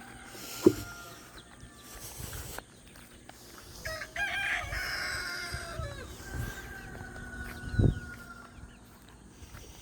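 A rooster crowing once, about four seconds in, a call of about two seconds, with other chickens calling faintly around it. Two dull thumps, one near the start and one near the end, are the loudest sounds.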